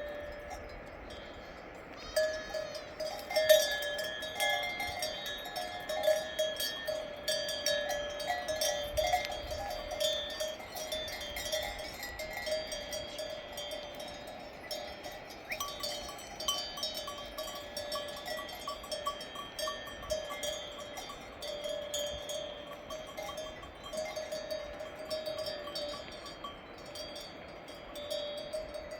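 Bells on a flock of sheep clanking irregularly and without pause, many bells at once, starting about two seconds in.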